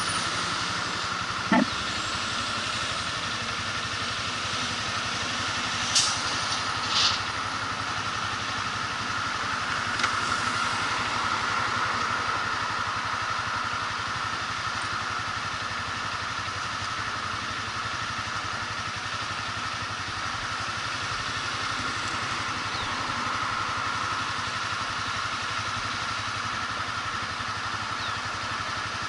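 Motorcycle running steadily, with a few short sharp clicks or knocks about 2, 6, 7 and 10 seconds in.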